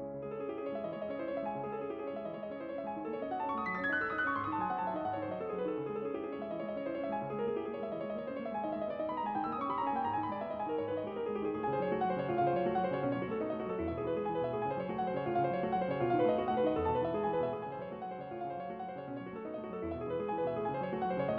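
Piano music with quick runs of descending notes, playing as intro background music.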